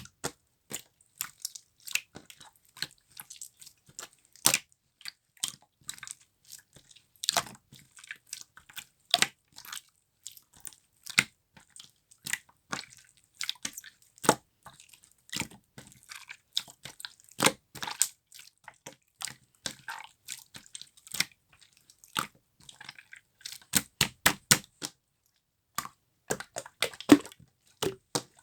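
Clear slime being pressed and squeezed by hand, giving irregular sticky clicks and pops.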